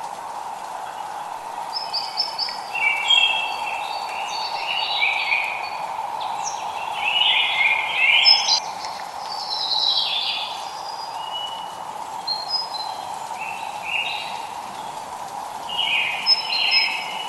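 Songbirds singing in short bouts of chirping, warbling phrases over a steady hiss of light rain.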